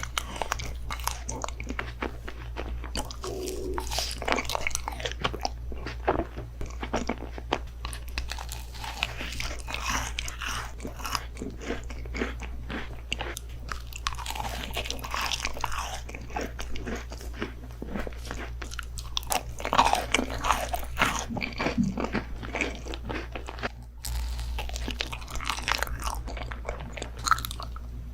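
Close-miked eating: crunchy bites and chewing of crisp food, a dense run of irregular crackles, over a steady low hum that changes abruptly near the end.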